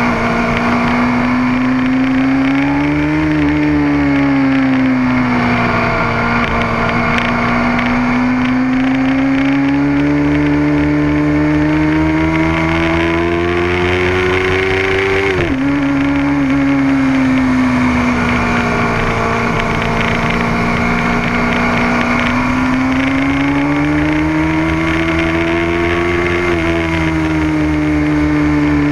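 Motorcycle engine running hard at speed on a race track, its pitch rising and falling slowly over several seconds, with one sudden drop in pitch about halfway through.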